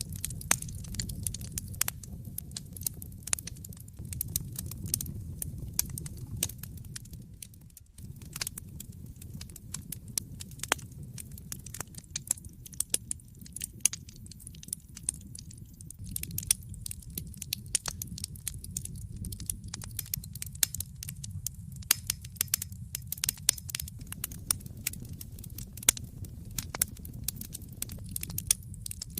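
Wood fire in a fireplace crackling: irregular sharp pops and snaps over a low steady rumble of the flames. The sound dips and then cuts back in abruptly about eight seconds in.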